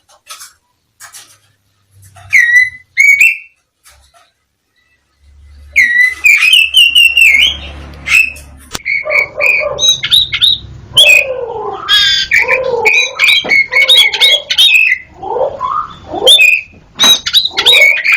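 Black-breasted Javan oriental magpie-robin (kacer) singing. After a few scattered clicks and two short chirps there is a brief pause, then from about six seconds in a loud, continuous, varied song of clear whistles, rapid chattering notes and lower harsh rasping notes.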